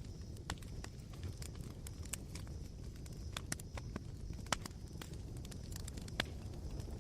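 Campfire crackling as it burns down to embers: irregular sharp pops and snaps over a low steady rumble, with two louder pops at about four and a half and six seconds in.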